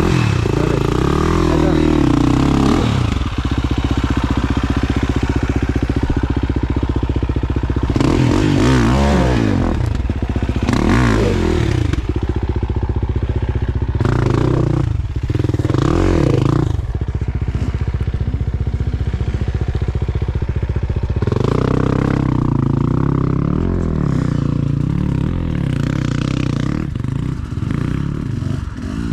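Enduro dirt bike engine revving hard in repeated surges, its pitch climbing and dropping back every few seconds, with some clattering and scraping between.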